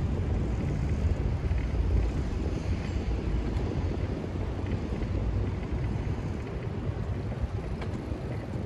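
Steady low rumble of moving-vehicle and wind noise buffeting a phone's microphone during a ride, fluctuating in strength and easing slightly near the end, with no distinct engine note.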